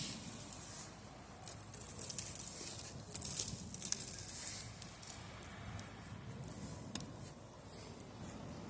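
Ocean waves washing in: irregular surges of hissing, crackling surf over a low rumble, strongest about three seconds in.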